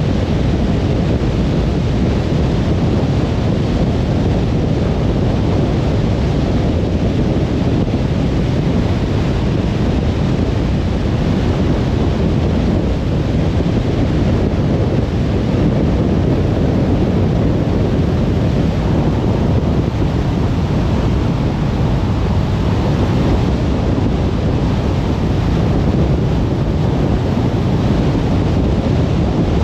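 Car driving at speed on a motorway: a steady rumble of tyre and wind noise, heaviest at the low end.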